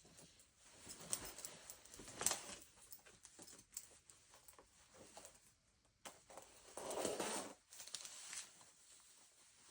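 Faint rustling and shuffling of a flannel shirt being handled and put on, in irregular short bursts with a longer stretch of rustling about seven seconds in.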